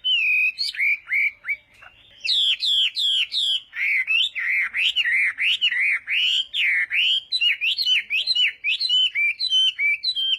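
Chinese hwamei (hoạ mi) singing a loud, varied song of rapid, sliding whistled notes in quick succession, with a short pause about two seconds in.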